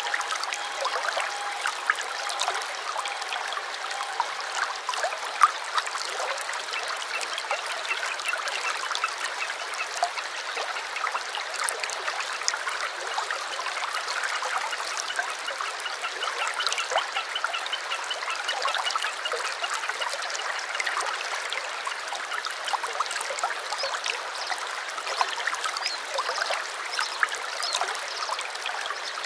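Small stream trickling and splashing steadily, with faint repeated bird notes in the background.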